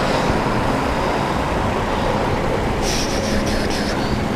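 Steady wind and road noise from riding a bicycle in traffic, with a motor vehicle's engine hum alongside. About three seconds in, a brief run of four or five quick high-pitched hissing pulses.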